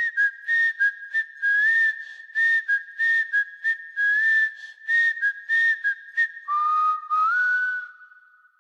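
A person whistling a tune: quick short notes around one high pitch, then a lower held note that slides up and fades out near the end.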